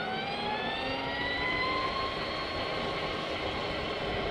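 Energica Experia electric motorcycle's motor whine rising in pitch as the bike accelerates, then levelling off at a steady pitch, over wind and tyre noise.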